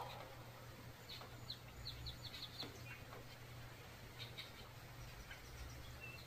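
Small birds chirping faintly: a quick run of short high chirps about one and a half seconds in, then scattered single chirps, over a faint steady low hum.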